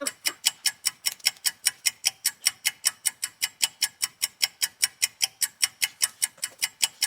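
Fast, even ticking like a clock, about five ticks a second.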